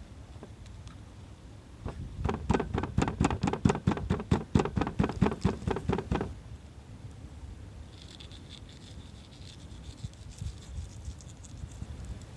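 Knife chopping rapidly on a cutting board, about five even strokes a second, for around four seconds and then stopping.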